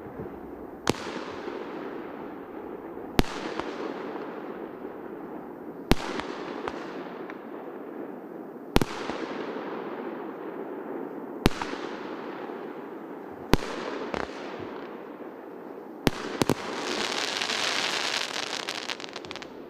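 A 'Город' multi-shot firework cake firing. A sharp bang comes about every two to three seconds, each followed by a fading hiss. Near the end two quick bangs lead into about three seconds of dense crackling that then fades out.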